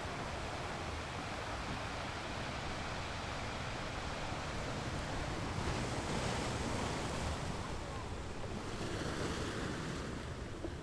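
Ocean waves washing onto a shore: a steady rush of surf, with one wave swelling louder about halfway through and easing off near the end.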